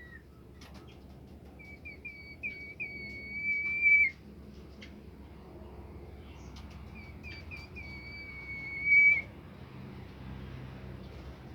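Bird song of the kind known to Indonesian bird keepers as 'bimoli': two phrases, each a few short notes leading into one long, steady high whistle that swells and dips at the end. The second phrase comes about three seconds after the first.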